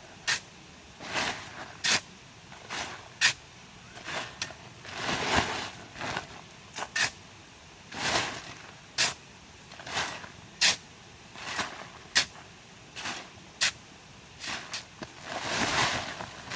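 Irregular scraping and knocking from manual work, roughly one stroke a second. Some strokes are sharp knocks and others are drawn-out rasps lasting about a second.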